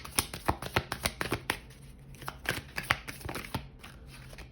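A deck of oracle cards being shuffled by hand: a quick run of crisp card slaps and riffles that slows and stops about three and a half seconds in.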